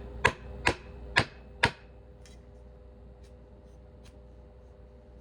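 Hard parts of a lamp being handled during assembly: four sharp clicks about half a second apart, then a few fainter ticks.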